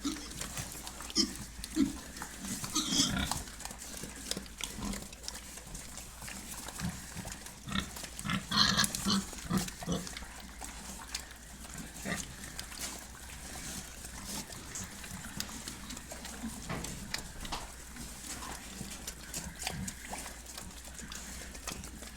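Pig squalling: loud, shrill squeals about three seconds in and again around nine seconds, between low grunts and short knocks. The second half is calmer, mostly grunting and shuffling.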